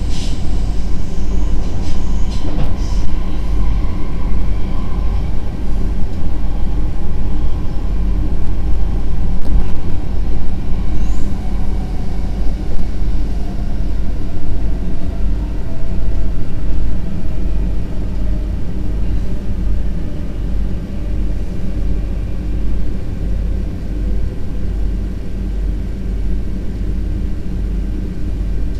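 VIRM double-deck electric train running on the track, heard from the rear cab: a steady low rumble of wheels and carriage, with a faint motor whine that falls slowly in pitch as the train slows.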